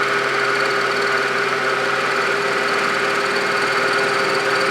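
Milling machine running steadily with an end mill cutting, a constant machine hum with several steady tones in it.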